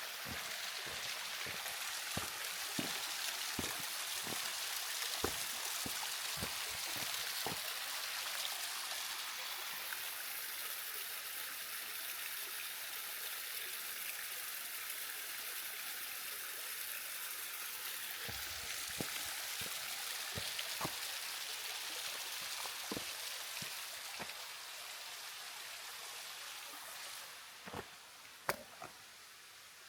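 Steady rush of falling water from a mountain stream or waterfall, with scattered short clicks over it; the rush drops noticeably quieter near the end.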